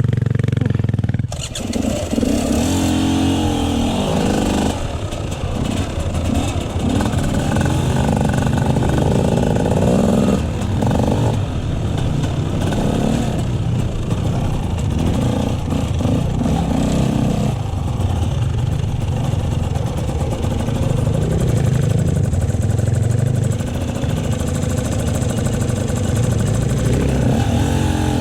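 Motorcycle engine running under way, its pitch rising and falling as the rider works the throttle and gears.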